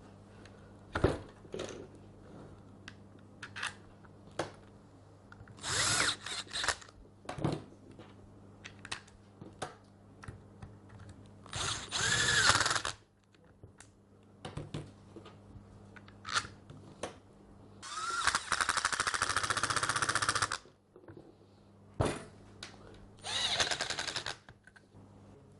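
Power screwdriver driving in four screws, in four separate runs of one to two and a half seconds, one rising in pitch as it spins up, with clicks and knocks of parts and tools handled in between.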